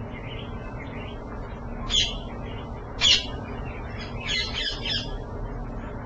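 Short, harsh bird calls: two single loud calls about a second apart, then a quick run of four, with fainter ones at the start, over a steady low hum.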